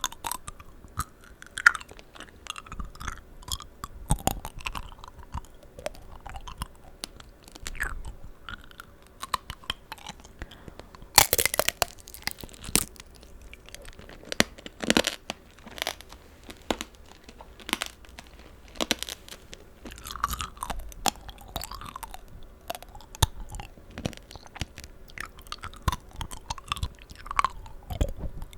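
Close-miked chewing of tanghulu, sugar-glazed fruit. The hard candy shell cracks in sharp crunches, loudest a little before the middle, with wet, juicy chewing between the bites.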